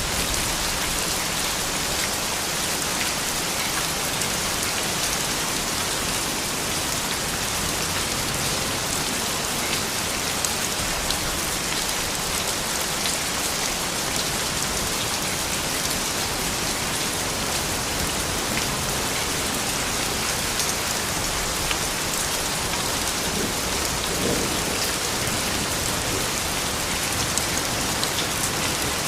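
Steady rain falling, an even hiss with scattered drop ticks on a hard surface.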